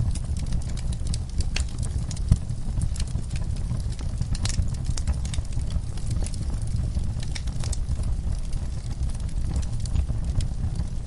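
Wood fire crackling with frequent sharp pops and one louder snap a little over two seconds in, over a steady low rumble.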